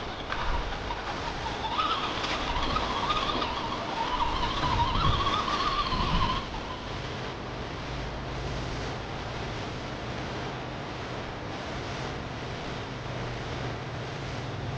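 Whine of a radio-controlled truck's electric drive motor and gearing, wavering in pitch with the throttle, cutting off about six seconds in. A steady low hum follows.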